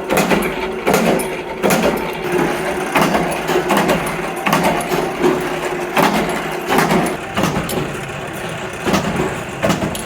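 Repeated metal impacts, about one every 0.7 seconds, over a steady machine hum, typical of scrap compressor steel being worked in a metalworking shop.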